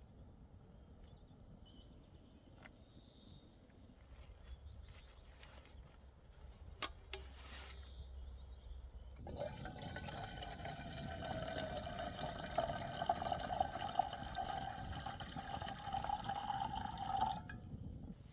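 Faint clicks of handling, then liquid poured steadily into a container for about eight seconds, starting about nine seconds in and stopping abruptly.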